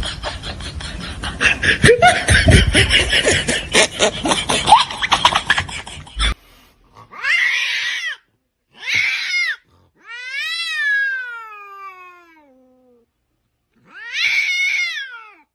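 A cat meowing four times in the second half, with the third meow long and falling in pitch. The first six seconds are a busy, noisy stretch full of clicks and knocks.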